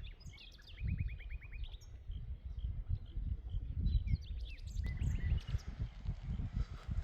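Small birds chirping and trilling, including a quick run of about eight falling notes about a second in, over an irregular low rumble.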